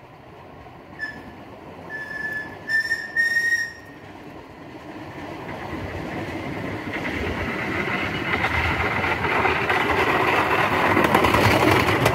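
A narrow-gauge train sounds four short whistle blasts, then its running and wheel clatter on the rails grow steadily louder as it approaches and passes close by near the end.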